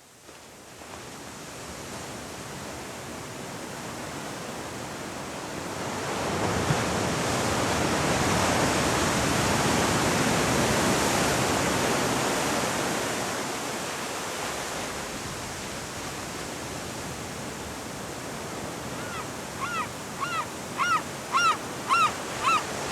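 Ocean surf breaking on the shore: a broad rushing wash that fades in, swells to its loudest near the middle and eases off. Near the end a run of short, evenly repeated high calls sounds over it.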